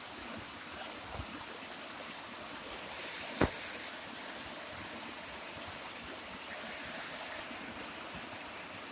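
Heavy rain falling steadily, with a single sharp knock about three and a half seconds in.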